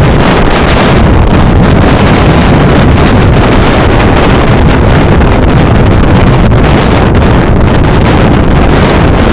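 Strong wind buffeting the microphone: loud, steady wind noise heavy in the low end.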